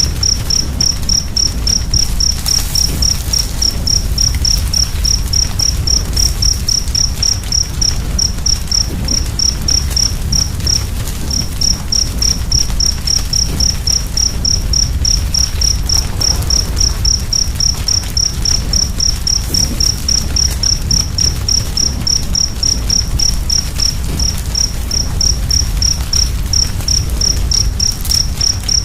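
A cricket chirping steadily in short high-pitched pulses, roughly three a second, pausing briefly about a third of the way in. Beneath it runs the low rumble of a fire with scattered soft crackles.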